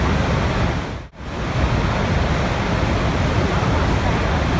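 Steady rushing water. About a second in it briefly fades almost out and comes straight back, like a loop restarting.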